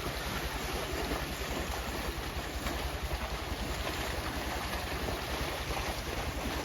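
Steady wash of moving canal water, with wind buffeting the microphone in a low, fluttering rumble.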